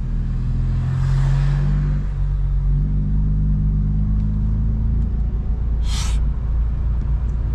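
Straight-piped BMW M4 Competition's twin-turbo inline-six running at low speed, a steady deep exhaust rumble. The note dips briefly about two seconds in, and a short hiss comes about six seconds in.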